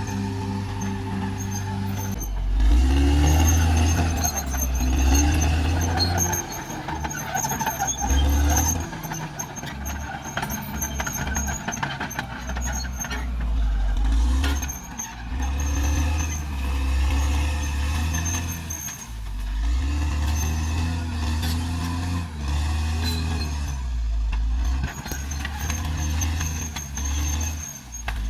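Caterpillar D6R XL bulldozer's diesel engine running steadily, then about two seconds in growing louder and working under load, its pitch dipping and rising again and again as the machine pushes, with clanking from the running gear.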